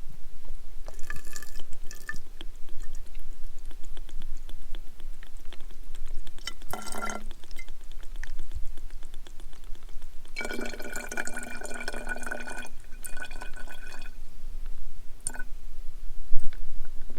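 Liquid poured and dripping into a glass beer bottle, in a few short spells; the longest lasts about two seconds.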